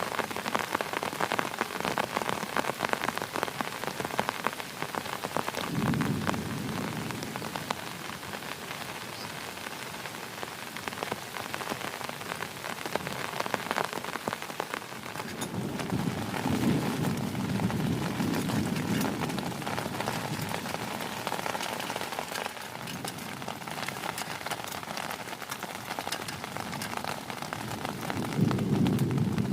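Heavy rain falling steadily, a dense patter of drops on a surface, with low rolls of thunder: a short one about six seconds in, a longer one in the middle, and the loudest near the end.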